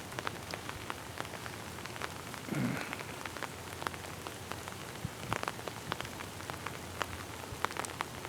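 Rain falling, with irregular sharp raindrop taps scattered throughout. A brief, louder, lower sound comes about two and a half seconds in.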